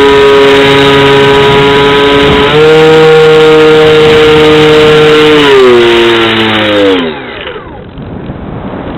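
Brushless electric motor and propeller of a foam RC plane whining steadily at high throttle, heard from a camera on the wing. The whine steps up in pitch about two and a half seconds in, then winds down over a couple of seconds as the throttle is cut, leaving the rush of wind past the camera.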